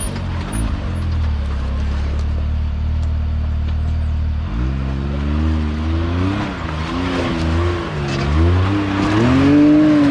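Side-by-side UTV engine running at a steady low speed, then revved up and down in repeated bursts from about four and a half seconds in as it climbs a rock ledge. The highest rev comes near the end.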